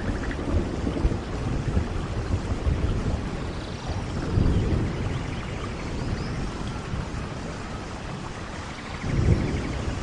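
Steady rainfall, with low rumbling swells about four seconds in and again near the end.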